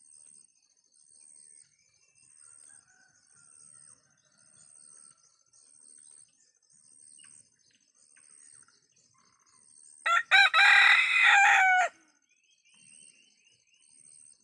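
A free-range village (kampung) rooster crowing once, a loud call of about two seconds starting about ten seconds in. Behind it, faint high-pitched chirps pulse evenly throughout.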